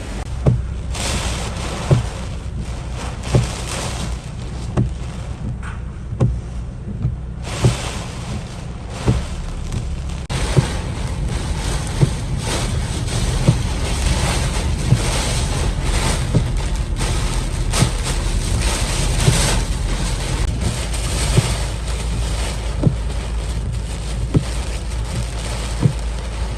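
Typhoon wind buffeting the microphone: a heavy, steady low rumble of rushing air, broken by sharp knocks every second or two.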